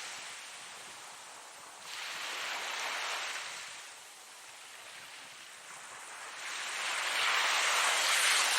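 Ocean surf: waves breaking and washing in, in swells of rushing noise. One wave breaks about two seconds in and fades, and a louder one builds and peaks near the end.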